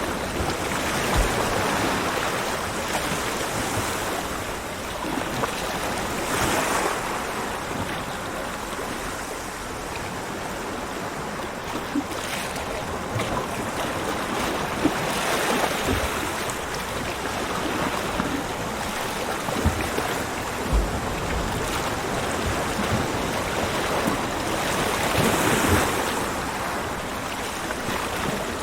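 Ocean surf breaking on a beach: a continuous wash of waves that swells and fades every few seconds, with a few brief low thumps.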